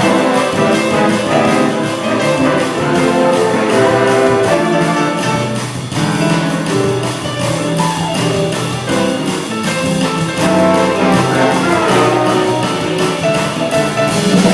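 Big band playing an instrumental passage, with trumpets and trombones carrying the line over a steady beat.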